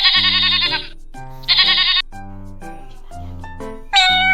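Goat bleating twice, two quavering calls near the start and about a second and a half in, over light background music. Near the end a cat's meow begins.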